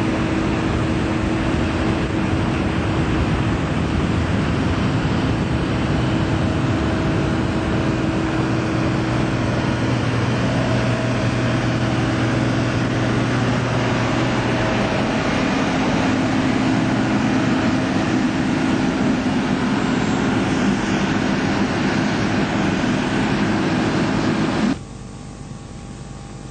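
Loud, steady engine drone with a few held hum tones, cutting off suddenly near the end.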